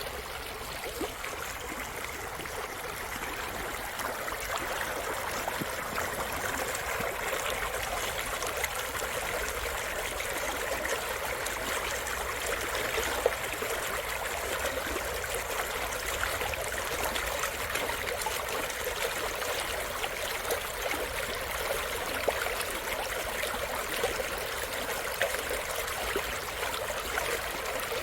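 Mountain valley stream flowing over rocks: steady rushing and babbling water, with a few brief louder splashes.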